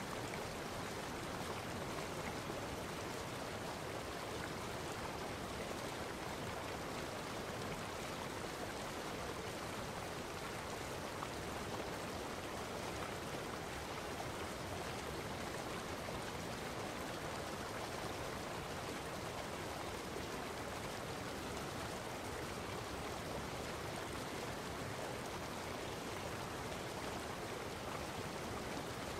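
Steady, unbroken rushing of water, even in level throughout with no distinct drips, splashes or other events.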